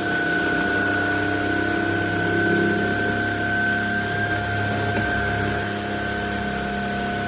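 Trucozie cordless stick vacuum running steadily with a constant high-pitched whine, its low hum shifting as it is pushed around the floor.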